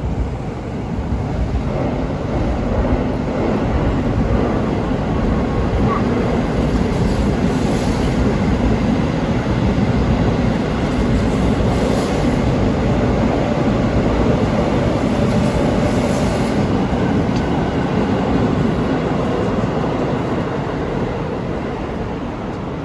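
Seibu Railway electric train running past, a steady rumble of wheels on rails that builds over the first couple of seconds and fades toward the end, with a few sharp clicks along the way.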